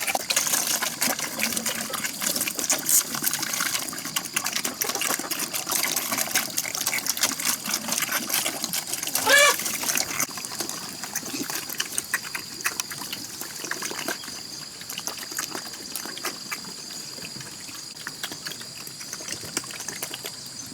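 Water splashing and trickling with many small clicks and knocks. About nine seconds in comes a short wavering animal-like call, and from about ten seconds a steady high-pitched tone hangs in the background.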